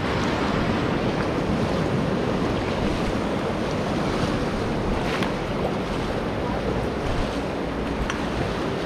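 Rushing water of the Ganges heard from a river raft, a steady loud churn, with wind buffeting the microphone.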